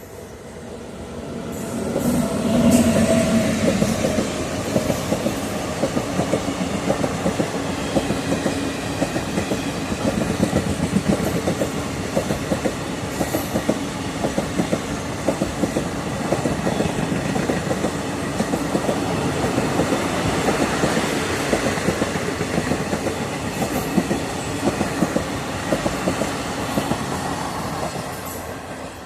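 Indian Railways train passing close by: the locomotive comes up loudly about two seconds in, then the coaches follow with a dense, rapid clickety-clack of wheels over the rail joints, fading away near the end.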